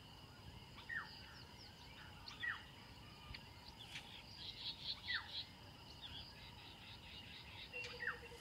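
Faint wild birds calling in the savanna: a short falling whistle repeated about four times, with a brief burst of higher twittering about halfway through, over a faint steady high whine.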